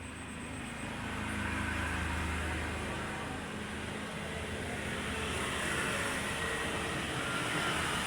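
Steady low engine hum with road noise, swelling about a second in and again near the end, like traffic passing by.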